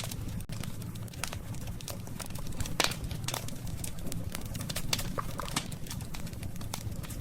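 Burning wood in a campfire crackling, with irregular sharp pops, the loudest about three seconds in, over a steady low rumble.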